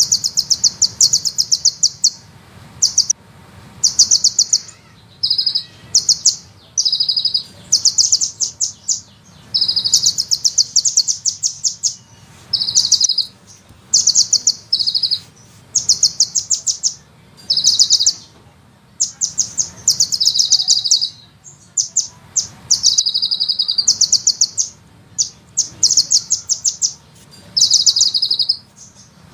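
A sunbird singing fast, high-pitched rolling trills. They come in bursts of rapid repeated notes, each lasting from half a second to a couple of seconds, with short pauses between them.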